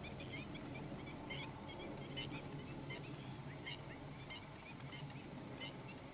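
Birds calling: a scatter of short high chirps, several a second, over a steady low background rumble.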